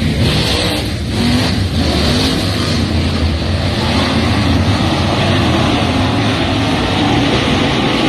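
A motor vehicle's engine running, its pitch wavering slightly up and down, under a steady rush of noise.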